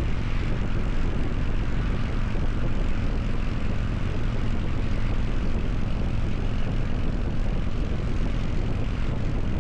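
Harley-Davidson motorcycle engine running at a steady speed while riding, a low even drone with rushing noise over it.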